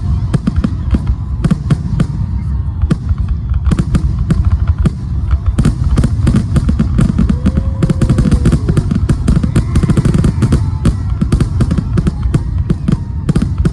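Fireworks going off in rapid succession: many sharp bangs and crackles, several a second and overlapping, over a continuous low rumble.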